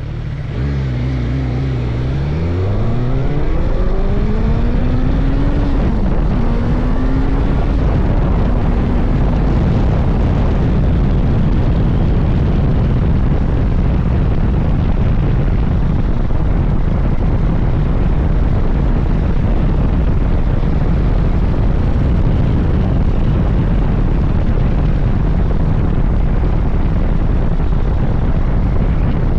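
Suzuki GSX-S1000GT's inline-four engine accelerating, its pitch climbing in a few steps as it shifts up over the first several seconds. After that a steady wind rush over the rider's microphone at speed drowns the engine.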